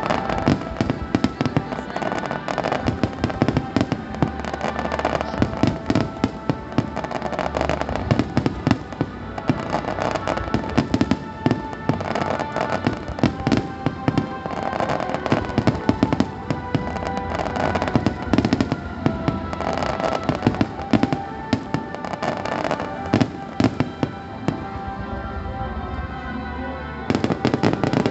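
Fireworks finale: a dense, continuous barrage of aerial shell bursts and crackling, many bangs overlapping, with music playing underneath. The bangs come thickest again near the end.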